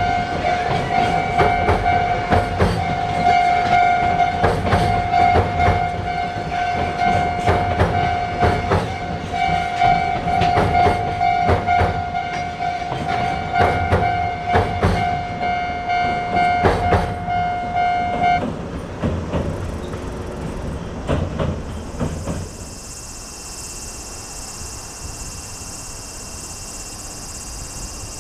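A train passing over a level crossing, its wheels clattering over the rail joints while the crossing's electronic warning bell rings steadily. About 18 seconds in the bell cuts off sharply and the clatter fades away, leaving a steady high-pitched hiss.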